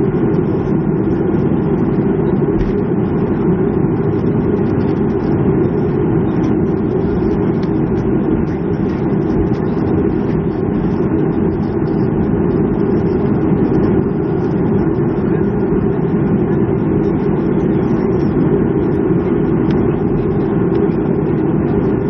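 Steady low cabin noise inside a Boeing 737-300 airliner on the ground after landing.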